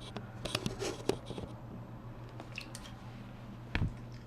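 Small splashes and sloshing of shallow water as a cockatiel moves about and tries to climb out of its bath, in irregular little bursts, with a dull thump near the end.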